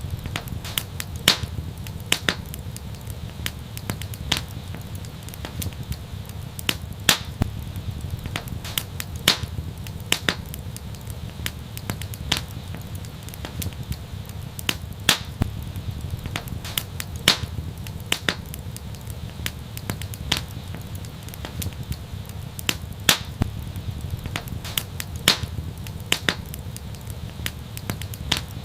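Wood fire burning steadily, with a low rumble under it and frequent sharp crackles and pops at irregular intervals.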